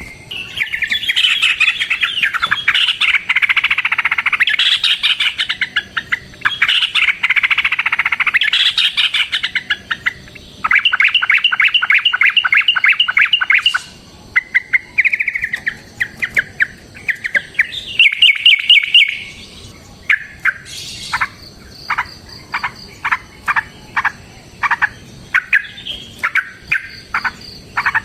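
Yellow-vented bulbul (trucukan) singing loudly in its fighting song. It opens with dense chattering, goes into long, fast, even trills, and near the end gives a string of sharp single notes about two a second.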